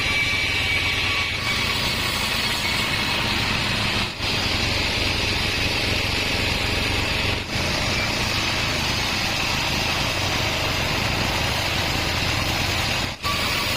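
36-inch band sawmill running, a loud steady machine noise with a faint high whine. The noise dips briefly three times.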